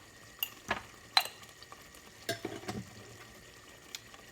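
A spoon stirring a simmering onion-and-tomato curry base in a pot, with several sharp knocks of the spoon against the pan over a faint sizzle.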